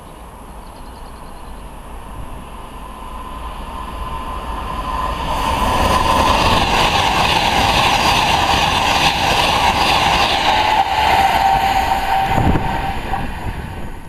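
Virgin express passenger train passing at speed: a rush of wheels and air that builds for several seconds, stays loud for about seven seconds, then falls away near the end.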